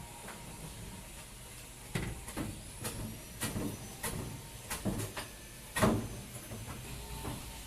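Blocks of ice being handled and loaded, knocking and thumping against each other and hard surfaces: about a dozen sharp knocks over some four seconds, the loudest near the end of the run.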